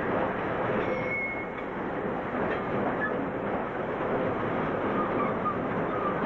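Freight train rolling along the track: a steady rumble of wagons on rails, with a few brief, high wheel squeals.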